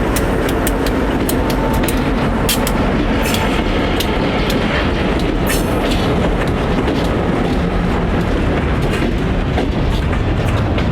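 Freight train rolling past: a steady rumble with wheels clicking and knocking over the rail joints.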